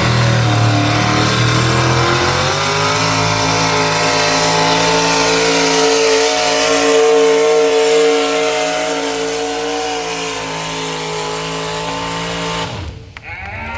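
Pulling tractor's engine running hard under load, its pitch climbing over the first few seconds and then holding high and steady. The sound cuts off suddenly near the end.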